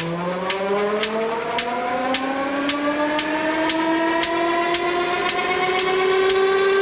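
Jet engine spooling up during a cold start: a steady whine that climbs slowly in pitch, with a sharp tick about twice a second.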